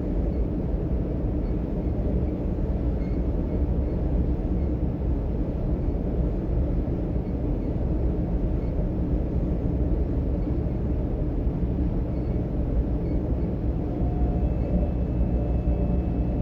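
DB Class 425 electric multiple unit running between stations, heard from inside the passenger compartment: a steady low rumble of wheels and running gear. A faint steady tone comes in near the end.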